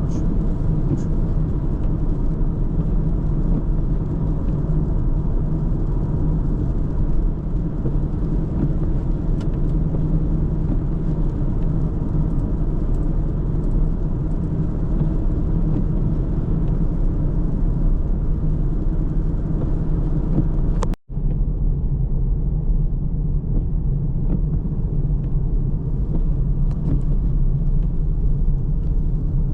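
A car driving along a road, with a steady low rumble of engine and tyre noise. About two-thirds of the way through the sound drops out for a split second, then returns slightly duller.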